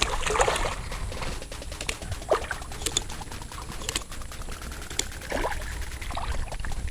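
Water splashing and dripping at the kayak's side as a hooked redfish fights at the surface, with scattered small clicks and knocks.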